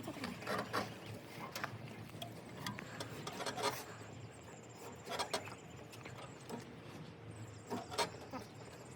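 Scattered light clicks and knocks, a few a second and irregular, from hands and tools working on an opened truck gearbox.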